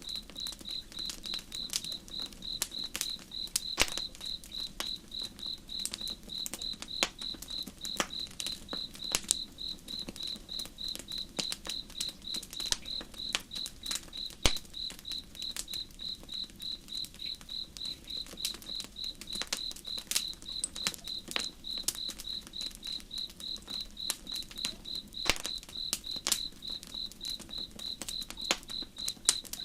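Campfire crackling with irregular sharp pops, the loudest about four and fourteen seconds in, over an insect chirping steadily at about two chirps a second and a faint low rush of river water.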